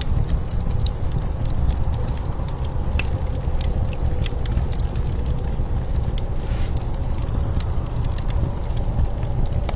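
Wood fire crackling, with frequent sharp pops and snaps, over a steady low rumble of blizzard wind.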